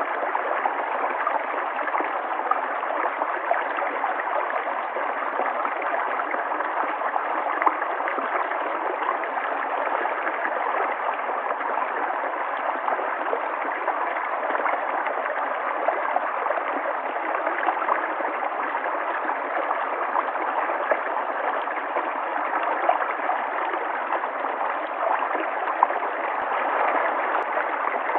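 River water flowing, a steady, even rushing that holds constant throughout.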